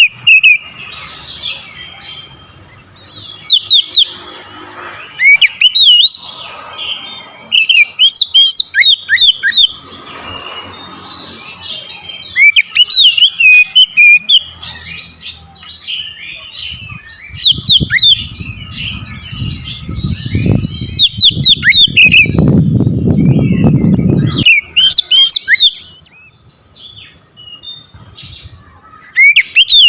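Oriental magpie-robin (kacer) singing loudly: repeated bursts of fast whistled, sweeping and scratchy phrases with short gaps between them. From about the middle to near the end, a loud low rumble runs under the song for several seconds, then stops suddenly.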